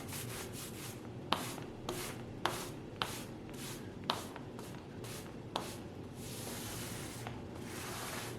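Rubbing strokes against a surface, in short repeated passes with a few sharp knocks in between, then one longer steady rub near the end.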